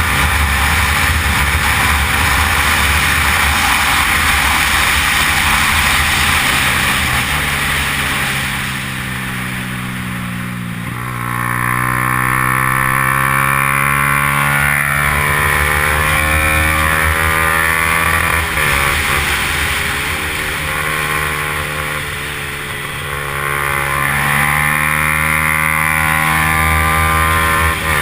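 Yamaha R15's 150 cc single-cylinder four-stroke engine running hard under race load, with heavy wind rush. The engine pitch falls twice, about a third of the way in and again past the middle, as the bike slows, then climbs back each time as it accelerates.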